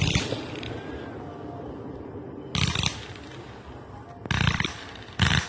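Fireworks going off: four short bangs, one at the start, one about two and a half seconds in, one just past four seconds and one near the end, with a low rumble between them.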